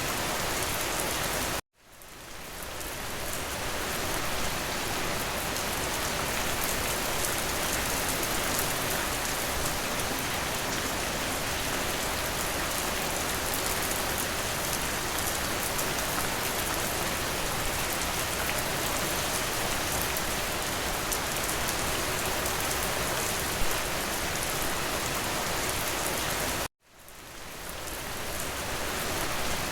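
Steady rain falling, a dense even hiss of drops. It cuts out abruptly twice, about two seconds in and near the end, each time fading back in over a second or two.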